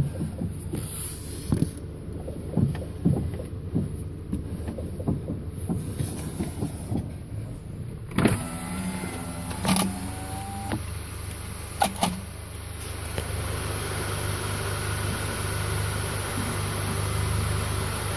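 Front suspension of a 2010 VW CC clunking and popping at the strut mounts as the steering is turned: many short knocks, then a few sharper, louder ones, with a steady motor hum growing in the second half. The noise appeared after B&G S2 lowering springs were fitted with new strut bearings; the owner suspects the bottom spring coils touching and rubbing as the springs turn.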